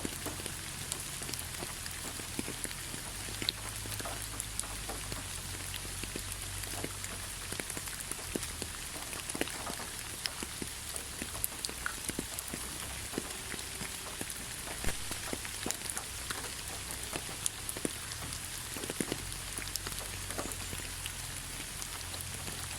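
Steady rain falling on a surface, a constant hiss with many individual drops ticking and pattering close by, over a low steady rumble.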